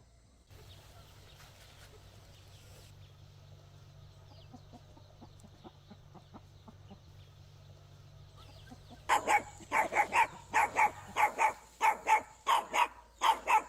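An animal calling loudly and repeatedly, about two calls a second, starting about nine seconds in; before that only a faint steady low hum.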